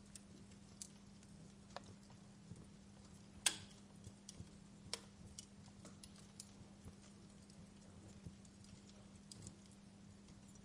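Wood fire crackling: irregular, scattered pops and snaps over a faint hiss, the sharpest pop about three and a half seconds in, with a steady low hum underneath.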